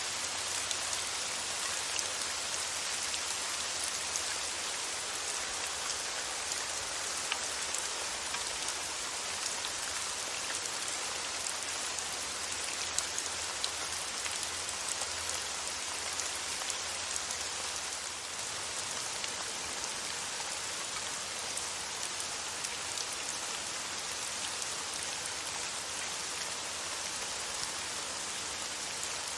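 Steady rain falling on a surface, an even hiss full of fine drop patter with no thunder.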